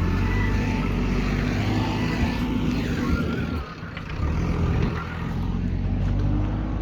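JCB backhoe loader's diesel engine running under load, dipping briefly a little past halfway before picking up again.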